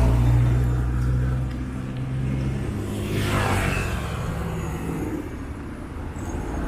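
Street traffic: a vehicle engine running close by with a low steady hum that fades after about two seconds, then another vehicle passing about three seconds in.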